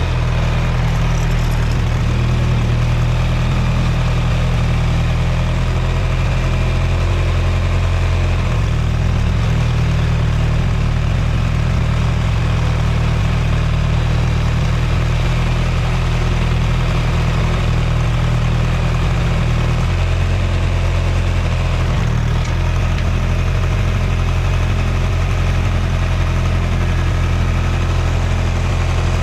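An engine running steadily at idle, low and even, its note shifting slightly a few times.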